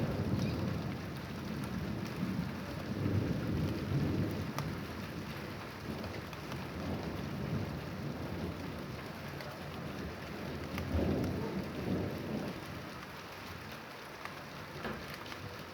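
Thunderstorm: steady rain falls while low rolls of thunder swell and fade several times, growing fainter near the end.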